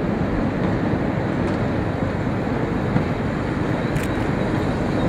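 Steady low rumble of a diesel train's engine, with a faint tick about four seconds in.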